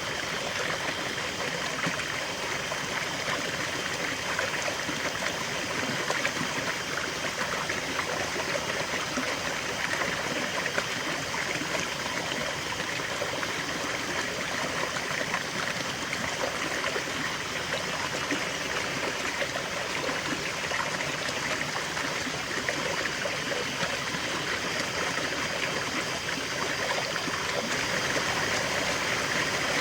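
A river flowing: a steady rush of running water that rises slightly in level near the end.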